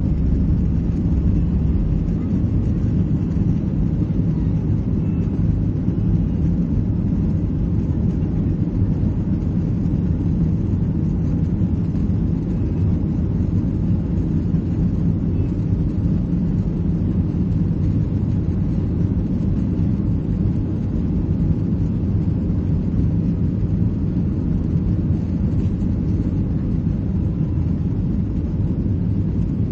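Steady low rumble of a Boeing 737-800's CFM56-7B turbofans and airflow, heard from inside the passenger cabin in flight.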